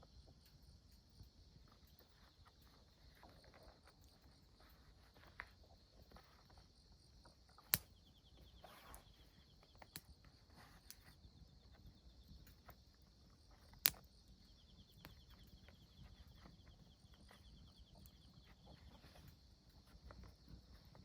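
Insects chirping steadily in a continuous high trill, with a second, slightly lower trill coming and going. Two sharp pops stand out, one about a third of the way in and one about two-thirds in.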